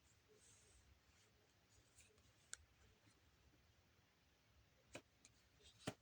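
Near silence: room tone with a few faint, sharp clicks, the loudest about two and a half seconds in and near the end.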